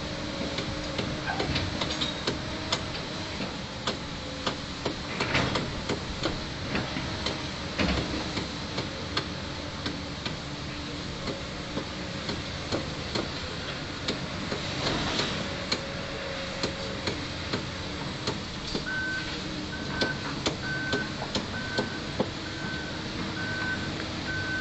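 Komatsu PC290 excavator loading a tipper truck: diesel engine running steadily, with repeated sharp knocks and clanks of material and machinery. Near the end a reversing alarm starts beeping steadily, about one beep every three-quarters of a second.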